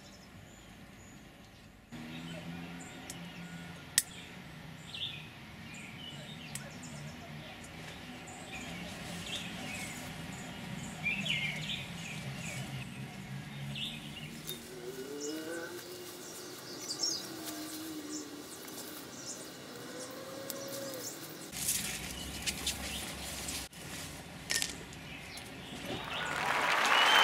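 Birds chirping over a low steady hum; about halfway through, the hum rises in pitch. A single sharp click comes about four seconds in.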